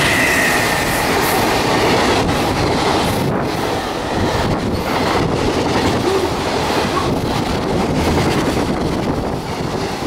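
Freight train passing at speed: an EF210 electric locomotive goes by first, with a high tone that fades within the first second, followed by its container wagons. Steady wheel-on-rail rumble with irregular clacks over the rail joints as the wagons roll past.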